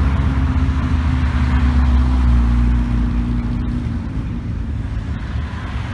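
A car engine running close by with a steady low drone that fades away after about three seconds.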